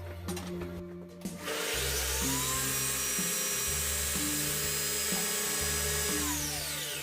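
A power tool's motor starts about a second and a half in, spins up with a rising whine, runs steadily for about five seconds, then winds down with a falling pitch near the end. Background music plays underneath.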